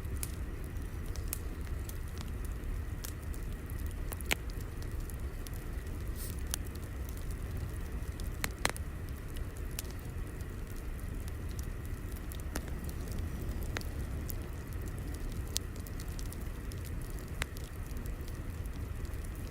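Wood fire crackling: a steady low rumble of burning with sharp, irregular pops every second or two.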